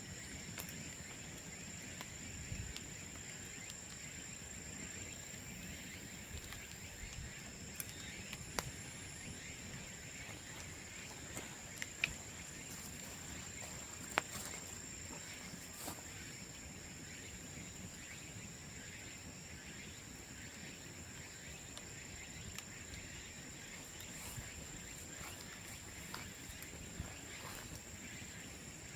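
Bonfire of cut bamboo crackling, with scattered sharp pops, the loudest about 12 and 14 seconds in. A steady high insect drone runs underneath.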